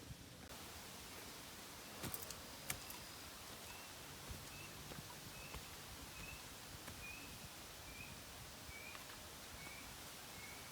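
A bird repeating a short, high note about twice a second, starting about a third of the way in, over a faint steady outdoor hiss, with a couple of clicks near the start.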